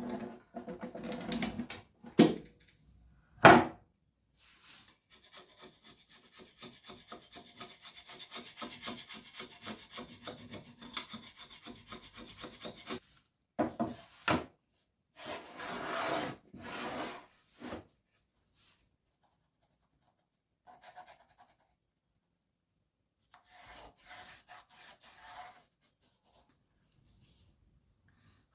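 Wood being worked by hand with a scraping tool: about eight seconds of quick, even scraping strokes, followed by a few separate longer strokes and fainter rubbing. Two sharp knocks come in the first few seconds, the second one the loudest sound.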